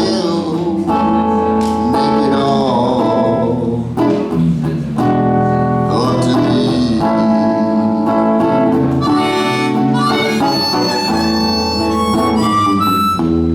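Harmonica solo over acoustic guitar accompaniment: held, sometimes bent notes of a slow melody, climbing to higher notes near the end.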